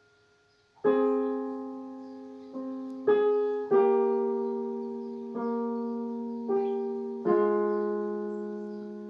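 Solo piano playing a slow piece: after a fading tone, a chord is struck about a second in, then half a dozen more notes and chords follow at uneven intervals, each left to ring and die away.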